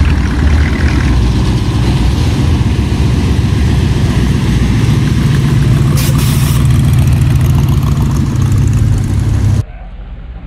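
Car engine running loud and close, its low note stepping up in pitch about halfway through as it is revved, then cutting off suddenly near the end.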